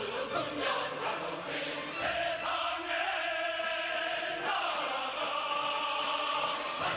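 A choir singing long held chords with musical accompaniment; the chord changes about two seconds in and again about halfway through.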